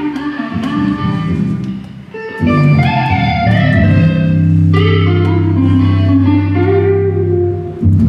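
Band warming up before a sound check: electric guitar picking loose runs of notes over bass. About two and a half seconds in it gets louder, with long held low bass notes under the guitar.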